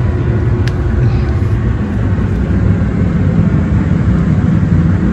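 Steady low rumble inside the carriage of a Taiwan Railways Tze-Chiang express train (EMU3000), the running noise of the train, with one short light click under a second in.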